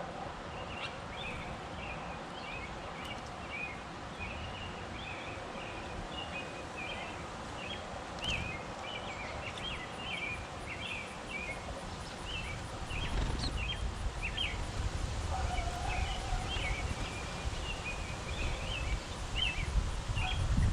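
Sparrows chirping, a steady stream of short quick notes. A low rumble joins in about two-thirds of the way through.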